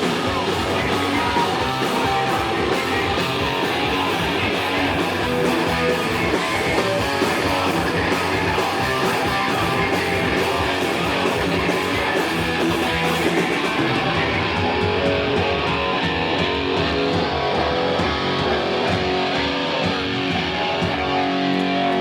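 A live band playing loudly, with distorted electric guitars over drums. About two-thirds of the way in, the drums drop out and the guitars ring on alone.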